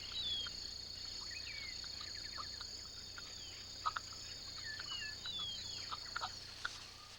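Insects trilling steadily at a high pitch, with short falling bird chirps scattered over them. The insect trill stops near the end.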